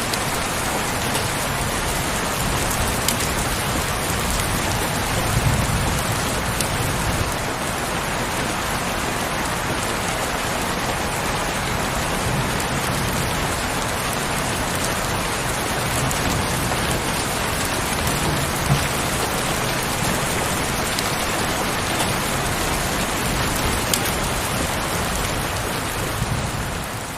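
Steady heavy rain, a dense even hiss with scattered sharper drop strikes and a faint low rumble underneath; it begins to fade out near the end.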